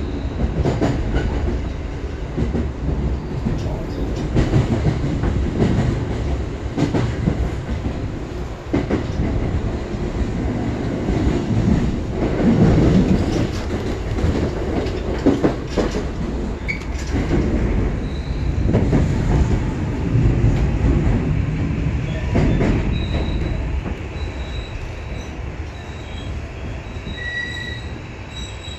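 Inside a JR West Osaka Loop Line electric commuter train on the move: a steady rumble of wheels on rail, with frequent knocks and clacks. In the last few seconds high steady squeals come in and the running noise eases as the train slows to arrive at Shin-Imamiya station.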